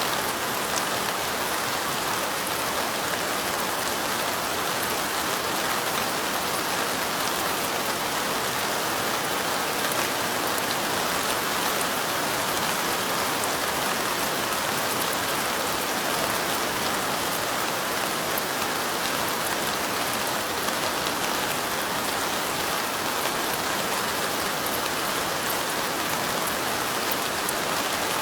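Light rain falling steadily: a dense, even hiss with faint scattered drop ticks.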